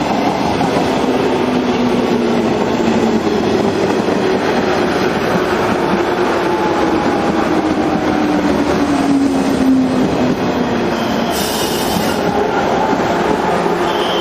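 JR 103 series electric train running, its motor whine sliding slowly down in pitch as it slows. A short hiss comes about eleven seconds in.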